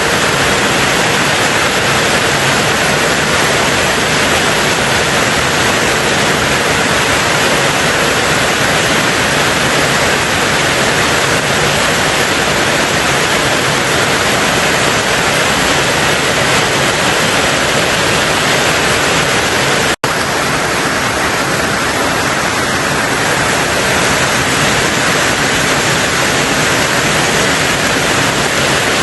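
Steady, dense rain on a tin roof, an unbroken hiss and patter, with a split-second dropout about two-thirds of the way through.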